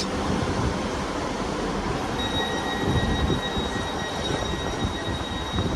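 Class 158 diesel multiple unit idling while standing, a steady low rumble. A thin, steady high tone comes in about two seconds in and holds.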